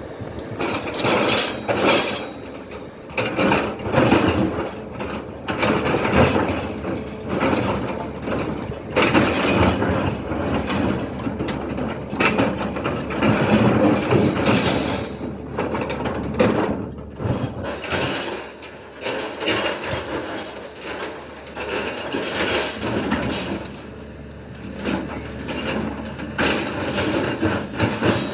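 SANY hydraulic excavator digging, with a dense metallic rattling and clanking. The loudness swells and falls every second or two as the machine works.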